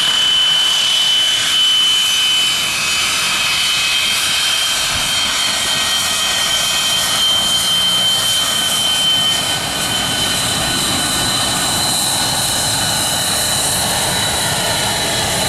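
Jet airliner's engines running with a steady rushing noise and a high whine. About two-thirds of the way through, the whine gives way to a slightly higher one.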